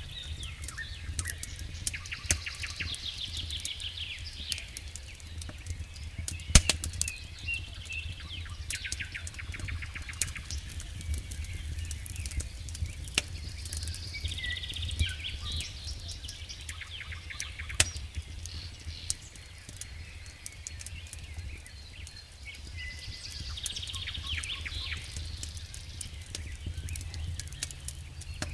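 Wood campfire crackling, with irregular sharp pops and one loud snap about six and a half seconds in, while small birds sing repeated trills in the background.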